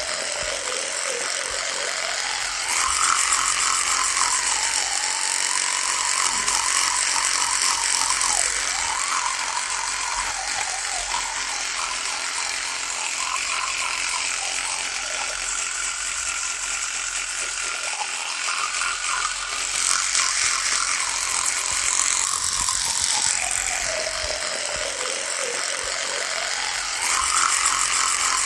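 Electric toothbrush buzzing continuously, its pitch slowly dipping and rising again every several seconds, with louder stretches in between.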